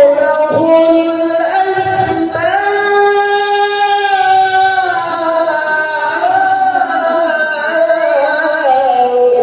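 A qari reciting the Quran in melodic tilawah style: a single voice holding long notes and ornamenting them with wavering, bending pitch, with no break.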